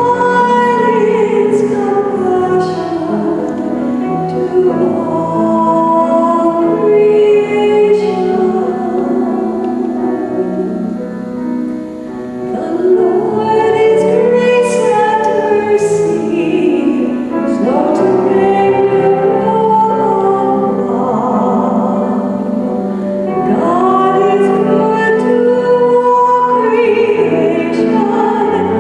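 Singing with instrumental accompaniment, slow sustained sung phrases: the psalm sung between the readings of a church service.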